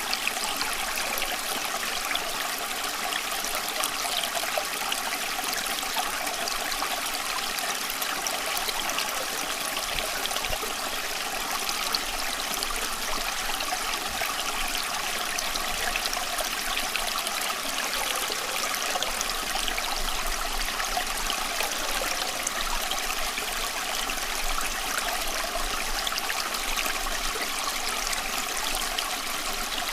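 Running water, a steady unbroken trickling and splashing with no pauses or changes.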